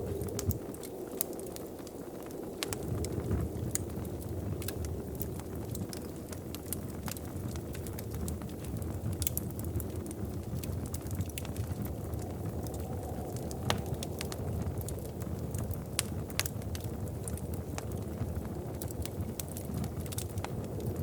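Wood fire crackling in a fireplace: irregular sharp pops and snaps scattered over a steady low rushing sound.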